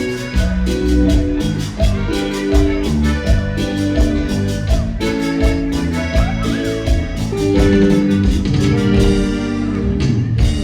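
Instrumental cumbia music with a steady beat and a keyboard playing held organ-like chords and melody.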